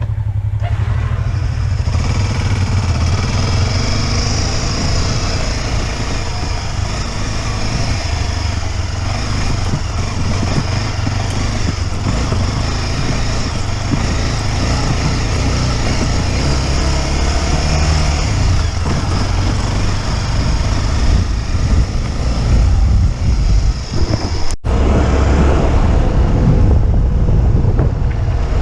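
Motorcycle engine running steadily under way, with a constant hiss of wind and road noise over it. There is a momentary break in the sound about 25 seconds in.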